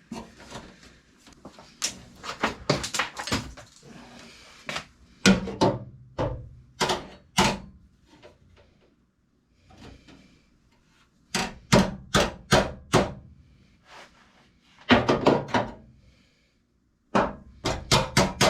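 Hammer blows on a sheet-steel patch panel being shaped and fitted into a truck's inner fender, in irregular bursts of sharp strikes with short pauses between.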